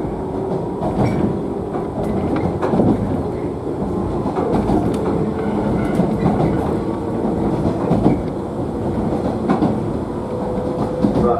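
JNR 113-series electric train running at speed, heard from inside a motor car: steady traction-motor and running noise with irregular clicks of wheels over rail joints.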